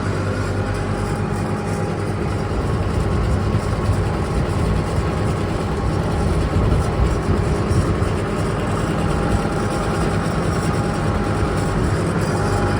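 Old SAME tractor's diesel engine running steadily under load as it drags a felled tree along a bush track.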